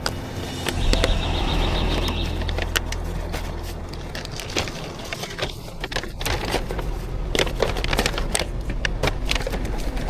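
A motor hums steadily from just after the start for about four seconds, among many short clinks and knocks of coffee-making utensils.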